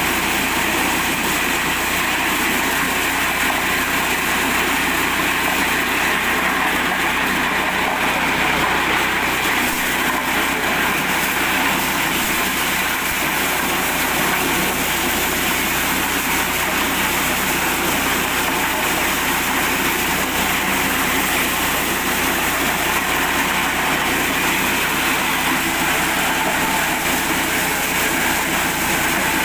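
Mini corn sheller driven by an 8 hp petrol engine, running steadily without a break.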